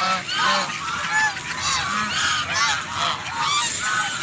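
A flock of farm fowl honking and calling over one another, many short calls overlapping.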